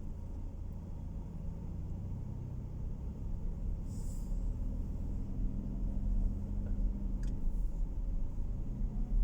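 Car engine and road noise heard inside the cabin while driving: a steady low rumble with a faint engine hum, slowly growing louder. A brief hiss about four seconds in.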